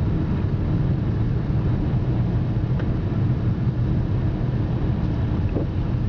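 Steady low rumble inside the cabin of a 2008 BMW 328xi all-wheel-drive coupe driving at about 25 mph on a snow-covered road: engine and tyre noise.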